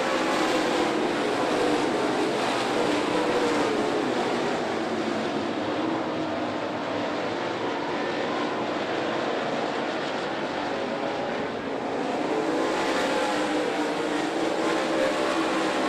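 A pack of dirt late model race cars running at speed, their V8 engines blending into a loud, steady drone that eases slightly near the middle and swells again as cars come past.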